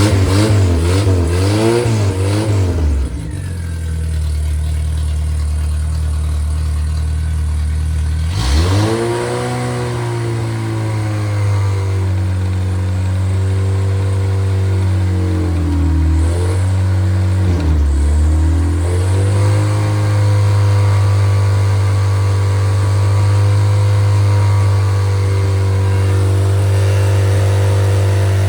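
Freshly rebuilt MG Midget 1500 inline four-cylinder engine running on a test run. A few quick blips of the throttle at the start settle to a steady lower speed, then it is brought up to a higher steady speed, with two brief dips in the middle.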